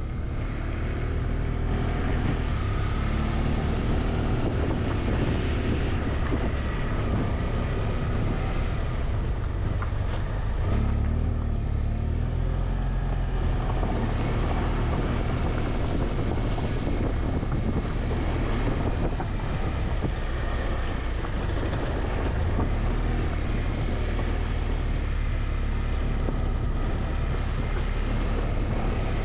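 Motorcycle engine running at road speed, with wind rushing over the microphone.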